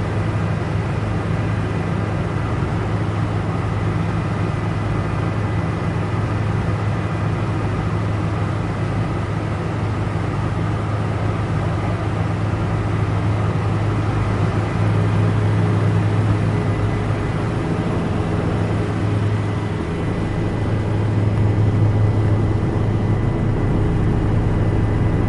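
Helicopter in flight heard from inside the cabin: a steady, loud low drone with a thin, steady high whine above it.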